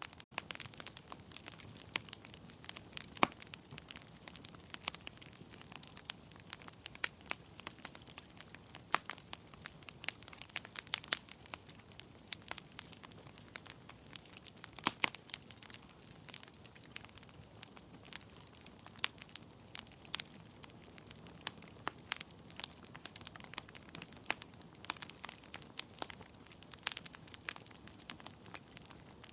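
Wood logs burning in a fireplace, crackling with irregular sharp pops and snaps over a soft steady hiss of the flames.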